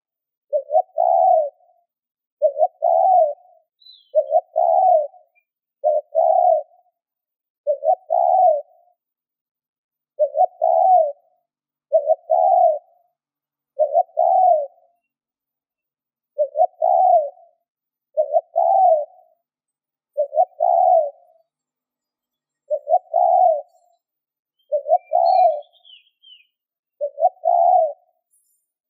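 Spotted dove cooing: one short coo phrase after another, about every two seconds, with clean pauses between.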